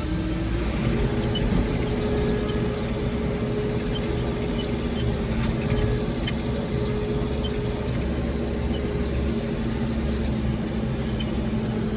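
Diesel engine of heavy earthmoving machinery running under steady load, with a steady whine over its low rumble. The pitch climbs over the first second, then holds even.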